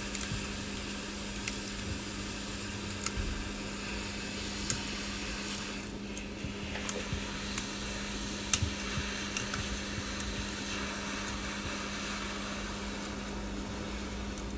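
Hot-air heat gun blowing steadily with a constant low hum, with scattered small sharp clicks of a metal tool picking at broken back-glass shards on the phone.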